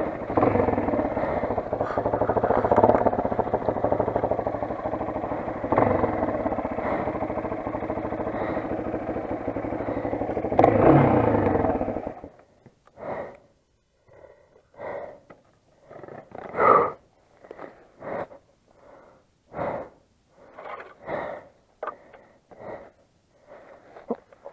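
Motoland XR 250 dirt bike's single-cylinder engine running, then cut off abruptly about halfway through. After it stops, a string of short scuffs and knocks.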